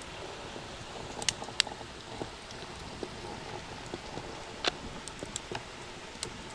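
Campfire of Ogalite compressed-sawdust firelogs burning: a steady hiss with scattered sharp crackles and pops, about six over the few seconds.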